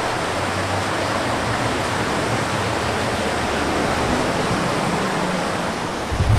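Steady, even rush of fast-running water.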